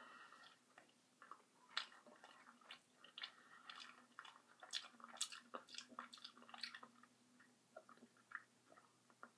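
A person chewing a mouthful of food close to the microphone: faint, irregular small clicks.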